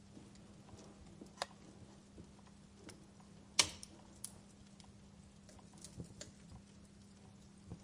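Wood fire crackling: scattered sharp pops and snaps, the loudest a little before the middle, over a faint steady hum.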